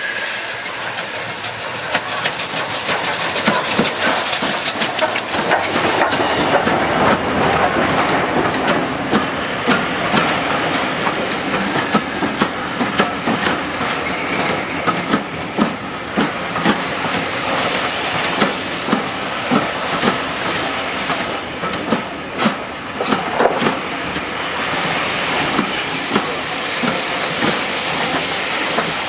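A steam-hauled train passing, with a burst of steam hiss early on, then wheels clicking over rail joints again and again as the carriages go by.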